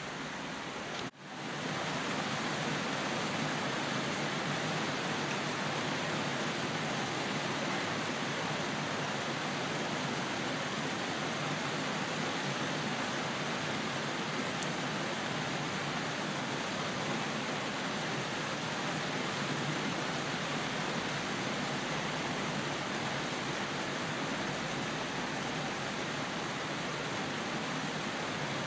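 Steady heavy rain falling, a dense even hiss with no thunder. The sound cuts out for an instant about a second in, then resumes unchanged.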